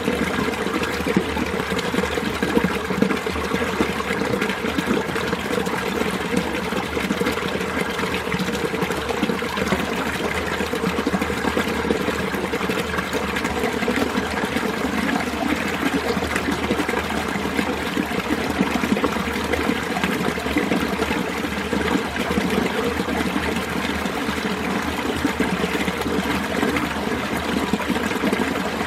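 Mountain valley stream water running steadily over rocks.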